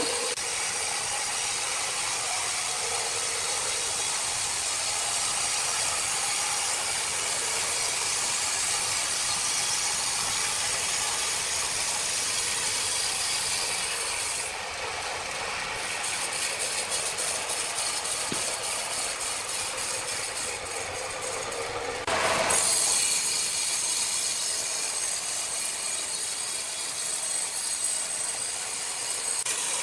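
Sawmill machinery cutting wood with a steady, noisy whir. About halfway in it changes to a rapid, even clatter for several seconds, then gets louder again from about two-thirds of the way through.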